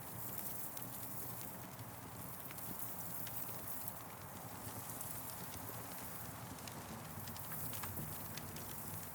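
Wood campfire crackling: irregular sharp pops and snaps scattered over a steady hiss.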